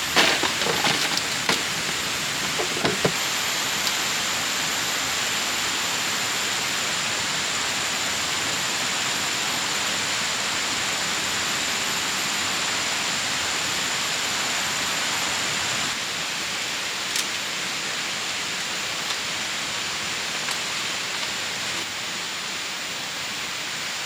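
Steady rushing of a river flowing over rocks, with a few light knocks in the first few seconds and a thin, high, steady tone above the water for much of the time.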